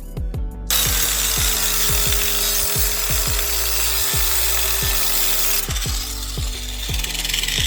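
Power tool running under load, a harsh rasping noise with a faint whine that slowly falls in pitch, starting about a second in and changing character near six seconds in. Music with a deep, booming bass beat plays underneath.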